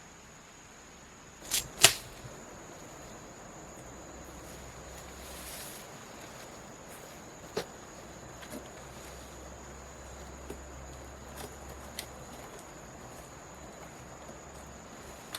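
Steady high-pitched insect trill, cricket-like, over a low background hum, broken by sharp clicks: a loud double knock about two seconds in and a few lighter ticks later on.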